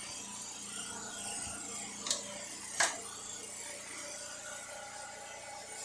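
Metal lathe driven by a 3-horsepower electric motor, running steadily in first gear on its transmission at 50 hertz, with a faint hum. Two sharp clicks sound about two and three seconds in.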